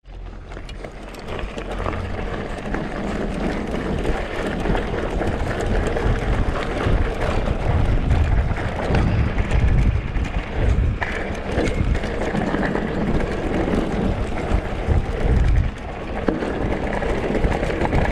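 Downhill mountain bike riding over a dirt and rock trail: tyres rolling and clattering over the ground, with the bike rattling and wind buffeting the microphone in a low rumble.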